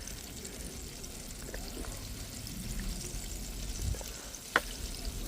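Chicken frying in hot oil: a steady sizzle with scattered small crackles. A sharp click about four and a half seconds in.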